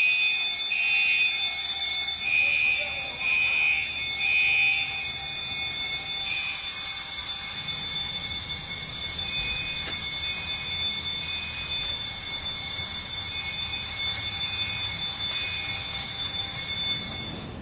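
An alarm sounding: several steady high-pitched ringing tones held throughout, with an extra tone pulsing about once a second for the first few seconds and more faintly later.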